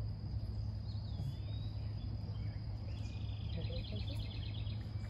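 Songbirds calling over a steady low rumble: a short whistled note about a second in, then a rapid trilled phrase from about three to four and a half seconds.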